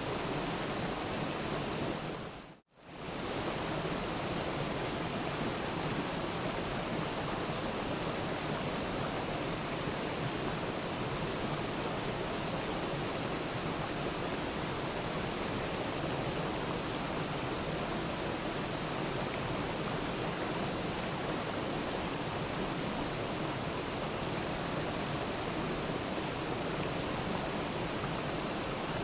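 Steady rushing of a waterfall, water falling without a break. About two and a half seconds in it fades out to silence for a moment and fades straight back in, like the join of a looped recording.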